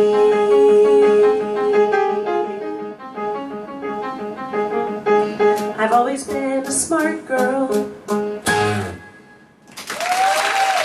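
Live band of piano, keyboard, guitar and drums playing the closing bars of a musical-theatre song. A long held note gives way to piano chords and a run of drum and cymbal hits that ends on a heavy final accent about nine seconds in. Audience applause and a whoop follow near the end.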